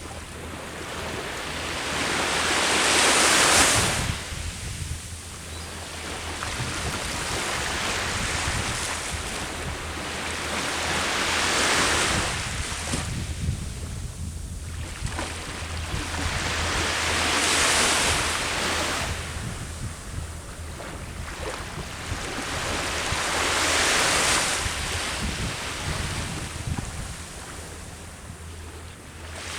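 Ocean waves breaking on the shore, each one surging up and washing back, about every six seconds, four times.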